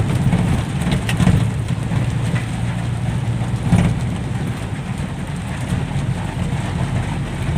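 Dump truck's diesel engine running steadily while the truck is driven, with a few short knocks and rattles about one and four seconds in.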